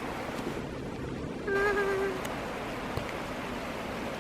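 Steady pattering hiss of soft graupel pellets falling. About a second and a half in, a short hummed voice sound, a pitched 'mm' lasting about half a second, rises over it.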